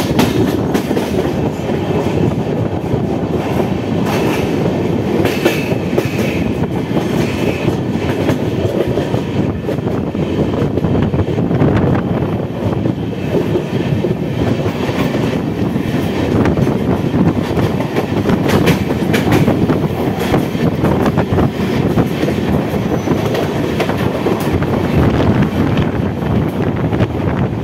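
Moving passenger train heard from its open doorway: a loud, steady rumble of wheels on the rails with frequent short clicks over the track. Near the end an oncoming Mumbai EMU local passes close by on the next track.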